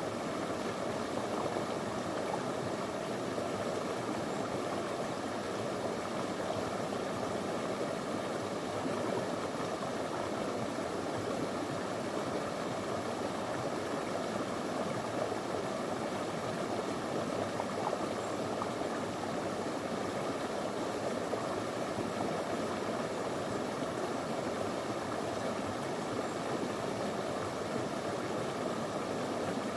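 Small stony river flowing steadily, a continuous rushing babble of water over stones.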